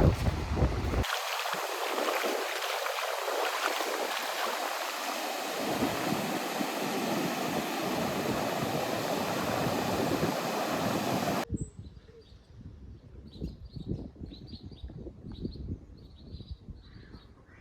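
Surf washing on a beach, a steady loud hiss with wind buffeting the microphone at first, which cuts off suddenly about eleven seconds in. After the cut, a quiet outdoor scene with a small bird chirping over and over in short high notes.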